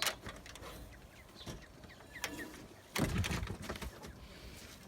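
Faint short bird calls in the background, with a brief noisy rustle about three seconds in.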